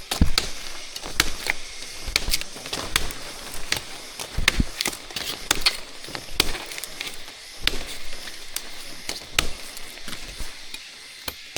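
A series of sharp knocks, like chopping or striking wood, irregularly spaced at about one or two a second.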